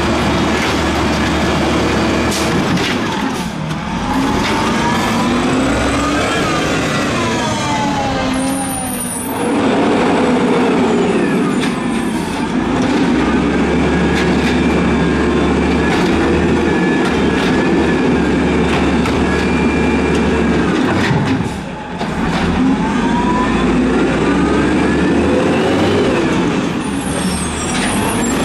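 Peterbilt 320 garbage truck's diesel engine revved hard several times: the engine note climbs over several seconds, drops off sharply, is held high, then drops and climbs again.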